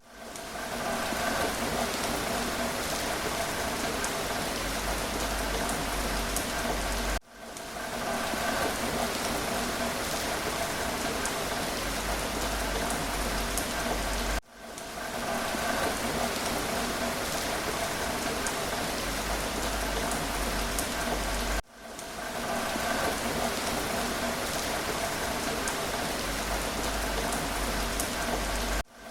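Steady rain falling, a continuous even hiss, with a brief dip in level about every seven seconds.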